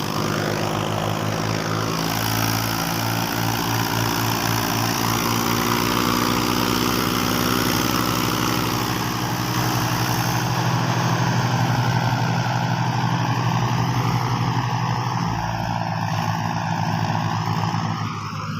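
Sonalika and Mahindra tractors' diesel engines running steadily and loudly in a tochan, where the two tractors pull against each other under load.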